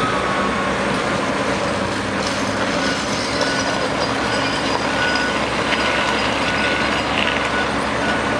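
Heavy oilfield truck engine running steadily under load. From about two and a half seconds in, a backup alarm beeps at a steady pitch about once a second while the truck reverses.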